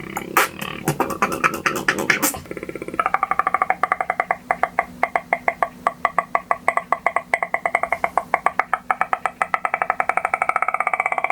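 Beatboxer's vocal special sounds: a few sharp mouth clicks, then from about two seconds in a long buzzing pitched tone held at one pitch and chopped into rapid even pulses, about ten a second.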